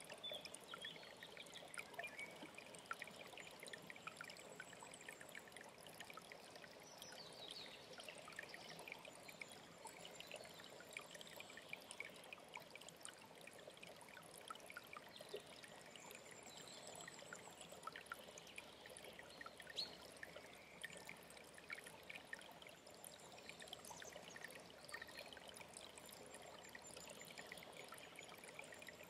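Faint mountain stream trickling and splashing steadily, with short, high bird calls now and then.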